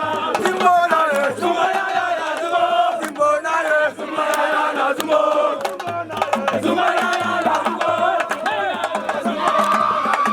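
Crowd of many voices chanting and singing together, with scattered sharp percussive strikes.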